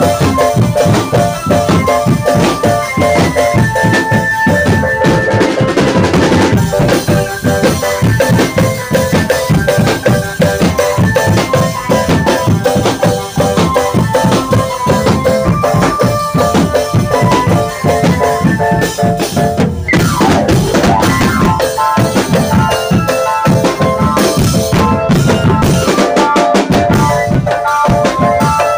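Drum band playing: rapid snare and bass drum beats under a melody of held notes.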